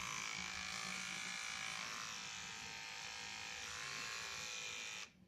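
Battery-powered hair trimmer's small electric motor running with a steady buzz, working again after its insides were cleaned. It cuts off suddenly near the end.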